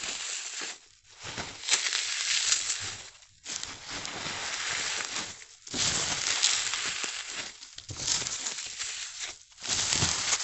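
Dry, unsoaked floral foam crushed in big slices: a dense, crisp crunching crackle in several bouts of a couple of seconds each, with brief pauses between them.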